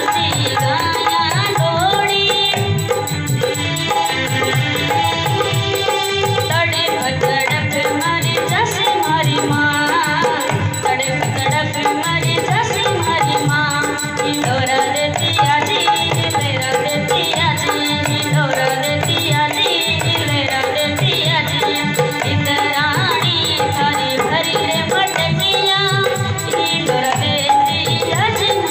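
Rajasthani folk devotional song played loud through a DJ sound system: a woman singing over a steady drum beat and rattling percussion.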